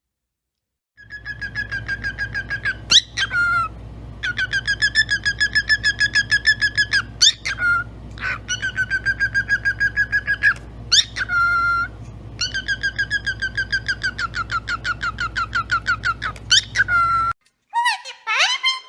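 A pet parrot whistling long runs of rapid, evenly pulsed notes, about eight a second, in several bursts broken by short rising squeaks, over a steady low hum. A different, sweeping whistled call starts near the end.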